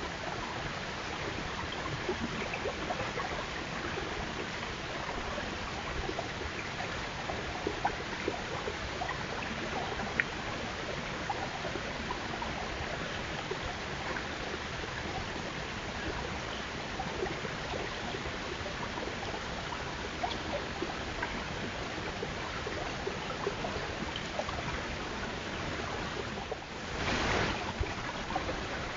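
Steady hiss-like outdoor noise with scattered small clicks, and a brief louder gust of noise near the end.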